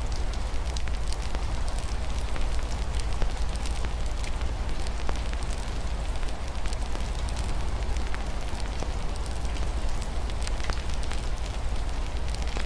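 Wood fire crackling in a fireplace, with frequent small sharp pops over a steady hiss of rain and a low rumble.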